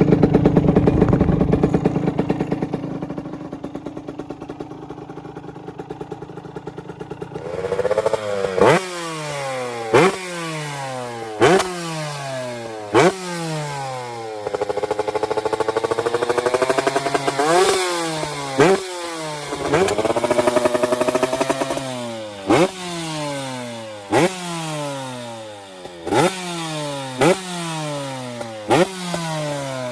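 TM SMR 125 Fi two-stroke supermoto engine and exhaust. It is loud at first and fades over the opening seconds. Then it revs in repeated short bursts, the pitch climbing quickly and cutting off sharply about every second and a half, with two longer, steadier pulls in between.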